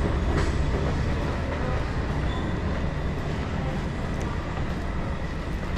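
Steady low rumble of a train running through the station, slowly getting quieter.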